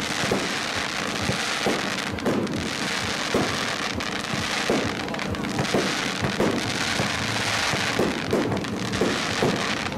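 Aerial fireworks display: a dense, steady crackle of bursting stars, with dull booms of shells going off every second or so.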